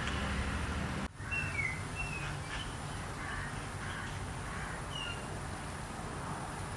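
Outdoor ambience: a steady low rumble and hiss with a few short bird chirps, a cluster of them just after a brief dip in the sound about a second in and one more near the end.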